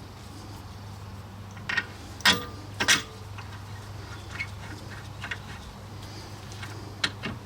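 Sharp metallic knocks and clinks from handling tools and brake parts: three loud ones about two to three seconds in, then scattered lighter ticks, over a steady low hum.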